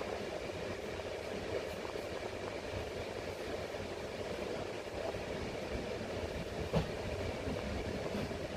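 Steady rumble and hum of a Senegal TER electric commuter train at a station platform, with a single sharp knock about seven seconds in.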